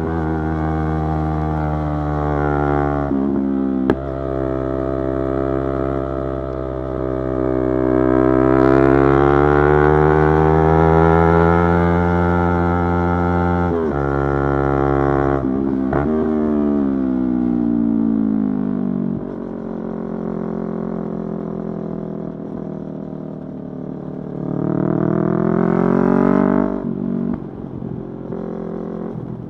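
Yamaha YZF-R3's 321 cc parallel-twin engine under way. The revs climb and then ease off. About a third of the way through there are a couple of sudden jumps in pitch as it shifts down, then the engine runs lower and steadier, and there is a short rev rise near the end before it drops off.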